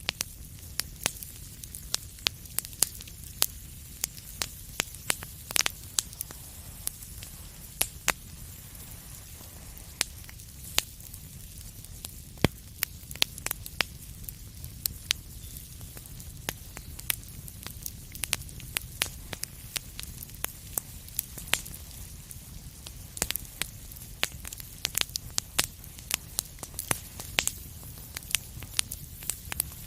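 Fireplace fire crackling: frequent irregular sharp pops and snaps over a low steady rumble.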